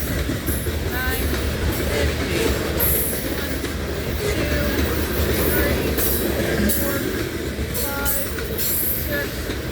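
Loaded grain hopper cars of a long freight train rolling past, a steady rumble with repeated wheel clicks and brief, scattered wheel squeals.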